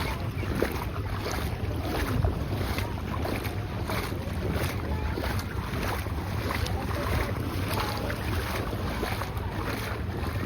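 Wind buffeting the microphone, a steady low rumble over the wash of sea surf.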